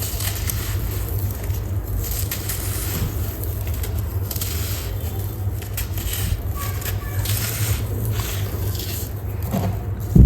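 Dry sand-cement clumps crumbling, with many small crackles and scrapes over a steady low rumble, and a loud thump near the end.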